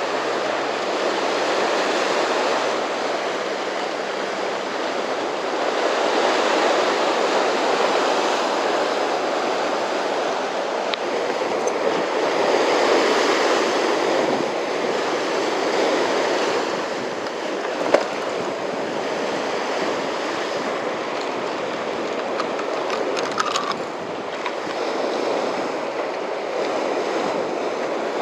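Heavy surf of a typhoon-roughened sea washing in steadily, swelling and easing every few seconds, with a single sharp click about eighteen seconds in.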